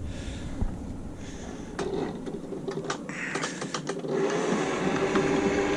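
Light metallic clicks and clanks as a metal deck plate is worked loose, followed about four seconds in by a steady motor hum starting up.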